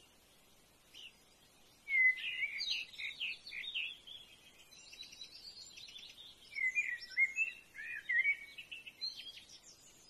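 Wild birds chirping and whistling in two busy bursts of quick, varied high notes, the first starting about two seconds in and the second in the latter half, over faint outdoor background noise.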